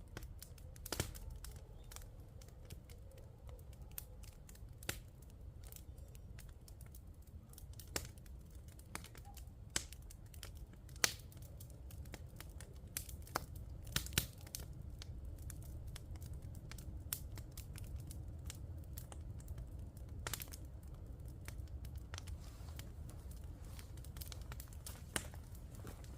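Scattered sharp clicks and crackles, irregular and a second or two apart, over a steady low rumble.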